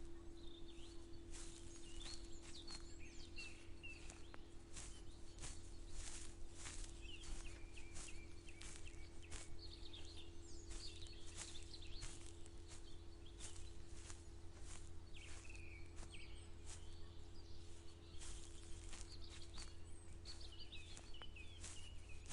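Footsteps walking at a steady pace, about two steps a second, while small birds chirp and twitter. A steady low hum runs underneath.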